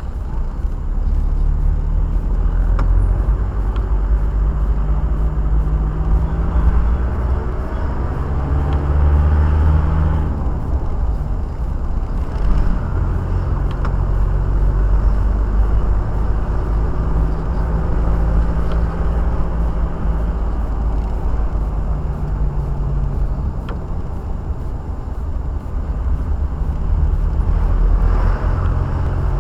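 Car engine and tyre noise heard from inside the moving car: a steady low rumble with an engine tone that slowly rises and falls as the car speeds up and slows down.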